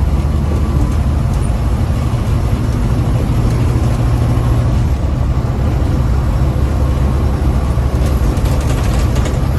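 Diesel engine of a loaded big rig truck running steadily while driving, a continuous low drone.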